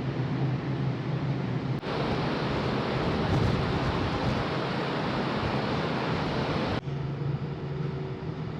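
Steady drone and hum of a large car ferry under way, heard aboard. About two seconds in it cuts abruptly to a louder, even rushing noise without the hum, then cuts back to the hum near the end.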